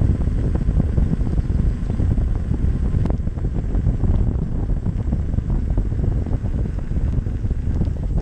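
Wind rumbling and buffeting on the microphone from riding along on an electric unicycle, with one faint sharp click about three seconds in.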